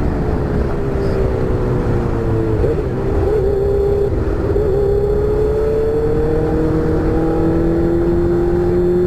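Honda Hornet's inline-four engine running through an aftermarket sport exhaust tip while riding: the engine note dips briefly a few seconds in, then climbs steadily as the bike accelerates in gear.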